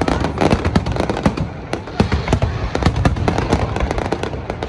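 Aerial fireworks bursting in rapid, overlapping reports, many per second, with a constant low rumble.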